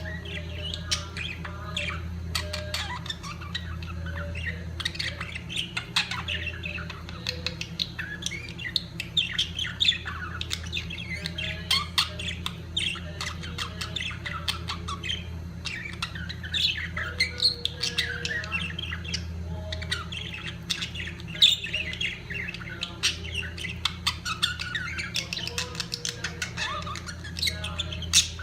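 Flock of budgerigars chattering: many overlapping chirps, warbles and squawks, nonstop, over a steady low hum.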